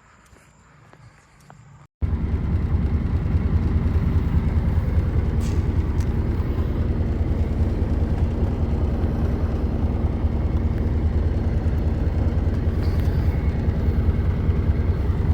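A vehicle on the move. After a quiet stretch, a loud, steady low rumble of engine and road noise starts abruptly about two seconds in and carries on unbroken.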